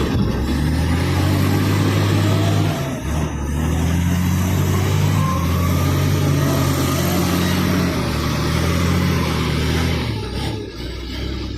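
Nissan TZA 520 dump truck's diesel engine running under load, holding a steady pitch in stretches, with brief dips in level about three seconds in and again near the end.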